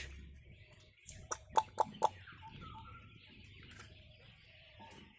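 Quail calling in their pen: a quick cluster of short, sharp calls about a second in, then a few softer calls over a faint steady hiss.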